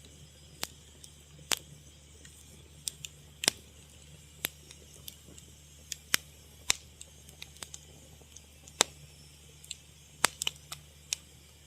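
Wood fire crackling: irregular sharp pops and snaps, roughly one or two a second, over a soft steady hiss and a low hum.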